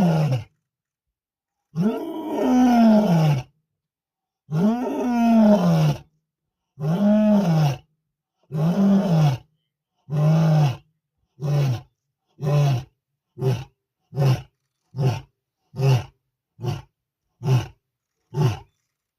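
Lion roaring through a full roaring bout: two long roars, then about a dozen shorter grunting roars, about one a second and growing shorter as they go, each rising and falling in pitch.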